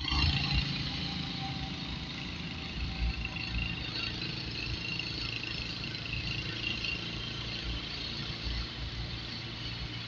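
Steady car engine and road noise while driving: a continuous low rumble with a hiss of tyres and wind over it.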